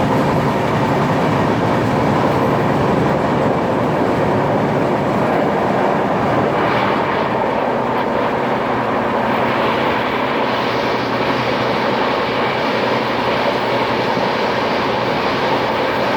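Moving train running steadily: a continuous rumble and rail noise that grows brighter and hissier about ten seconds in.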